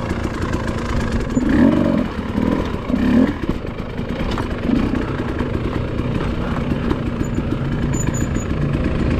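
Dirt bike engine running at low speed, with a brief rise in level between about one and a half and three and a half seconds in.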